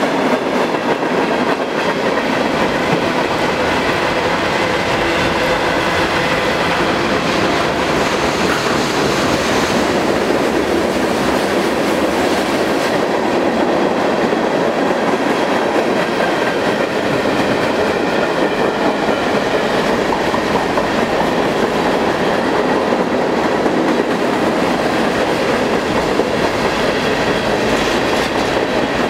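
Freight cars of a long mixed freight train rolling past close by on a curve: the steady, unbroken sound of steel wheels running on the rails.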